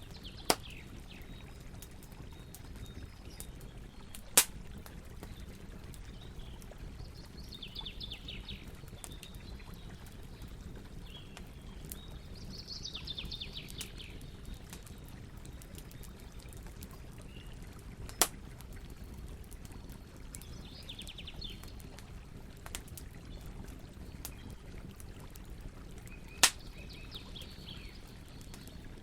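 Campfire burning with a steady low rush of flame and scattered crackles, four of them sharp loud pops of burning wood. Birds trill briefly in the background every several seconds.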